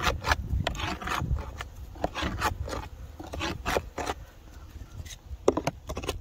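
Hive tool scraping and knocking against the wooden entrance of a beehive, clearing out dead bees: a run of short, irregular scrapes and taps.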